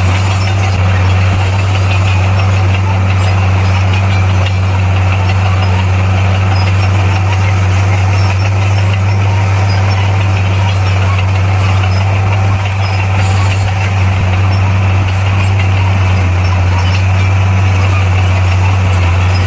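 Bulldozer's diesel engine running steadily with a deep, unchanging drone.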